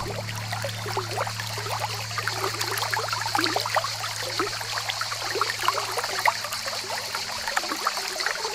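Water trickling and bubbling, as in a small stream, over a low steady hum that stops about seven seconds in.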